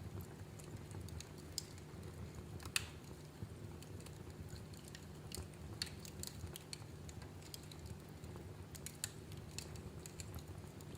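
Wood fire crackling in a fireplace: irregular sharp pops and snaps, the loudest a little under three seconds in, over a steady low rumble of the flames.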